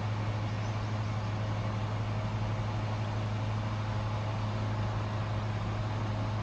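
Steady machine hum: a constant low drone with an even hiss over it, unchanging throughout.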